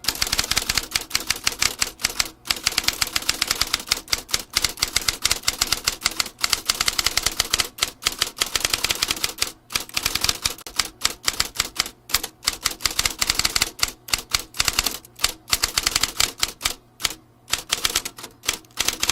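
Vintage typewriter being typed fast: a steady run of sharp key strikes, several a second, broken only by a few short pauses.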